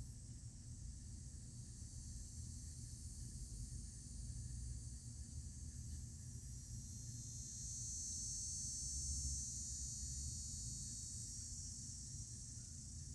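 A high, steady insect chorus that swells louder for a few seconds past the middle and then eases back, over a low rumble.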